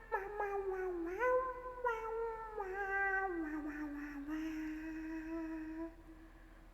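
A young woman's voice making drawn-out, wordless cat-like cries, a few long notes that glide up and down in pitch, then settle into a lower held tone and trail off near the end. It is the tipsy vocalizing of someone who has been drinking.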